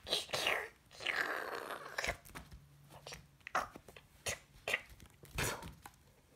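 Dog chewing and crunching on a plastic toy figure: a rush of noisy biting, then scattered sharp crunches and knocks.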